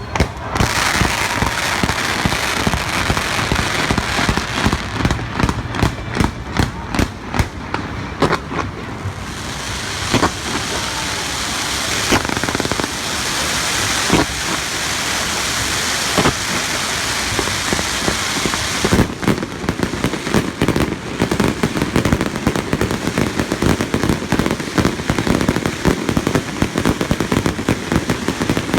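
Fireworks display: shells bursting with sharp bangs over a continuous crackle. About two-thirds of the way through the crackling becomes much denser and faster, a rapid stream of small pops.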